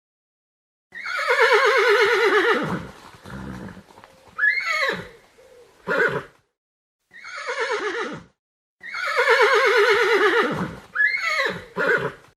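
A horse whinnying: a long quavering whinny that falls in pitch, followed by shorter whinnies, and the same sequence again about 8 seconds later.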